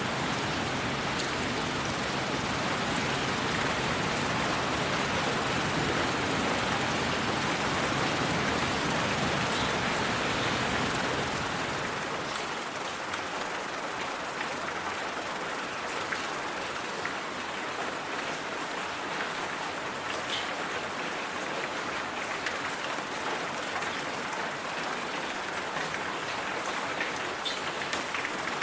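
Steady rain-like hiss of white noise. About twelve seconds in, the deep rumble drops out, leaving a thinner hiss with a few faint ticks.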